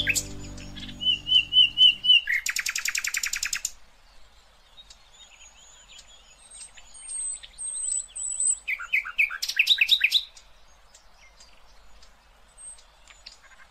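Several songbirds calling: a run of short repeated chirps, then a fast trill, thin high whistles, and a burst of quick chirps about ten seconds in. The last notes of the music die away during the first two seconds.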